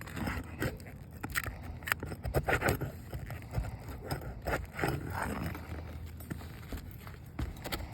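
Roof snake scraping and knocking against asphalt shingles in irregular strokes as they are lifted to get at the nails, over a steady low rumble.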